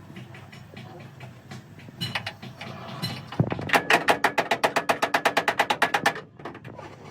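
Rapid, even series of sharp knocks, about nine a second for nearly three seconds, after a few scattered clicks.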